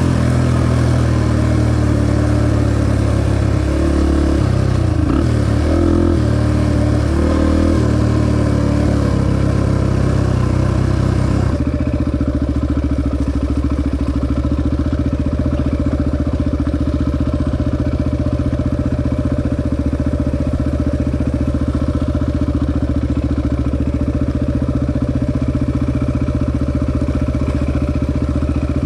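Honda XR250 single-cylinder four-stroke dirt bike engine riding a trail, revs rising and falling with a hiss of wind over it. About twelve seconds in the hiss falls away and the engine settles to a steady low idle.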